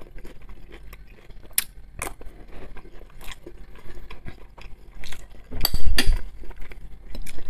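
Close-miked chewing of a spoonful of buckwheat, with a metal spoon clicking against plates several times; the loudest clatter comes about six seconds in as the spoon scrapes into the salad plate.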